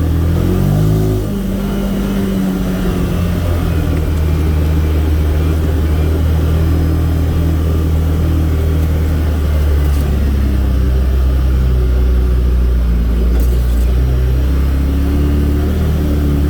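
A vehicle engine running steadily under way, its pitch dipping and picking up again about a second in.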